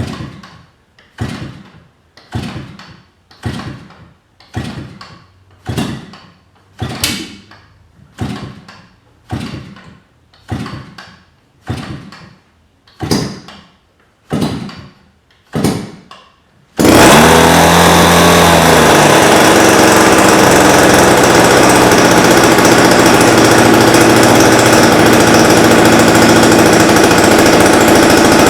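ZDZ 40 RV two-stroke RC airplane engine on a cold start: it is turned over about once a second, each turn a short puff that dies away, some fifteen times. About 17 seconds in it catches and runs on loud and steady, its high-speed needle set a tad rich.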